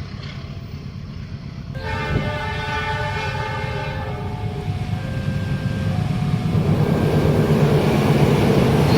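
A train's locomotive horn sounds a chord in a long blast about two seconds in, followed by a couple of shorter toots, while the rumble of the approaching train grows steadily louder.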